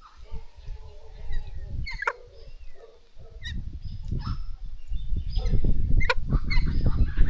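Galahs calling at the bird bath: repeated short, harsh screeches and chatter from several birds. Under the calls there is a low rumble that grows louder from about halfway through and ends up louder than the birds.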